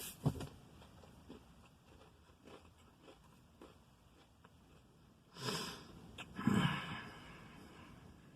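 A person eating a chicken sandwich: faint chewing with small mouth clicks, then two short, louder breathy noises about five and a half and six and a half seconds in.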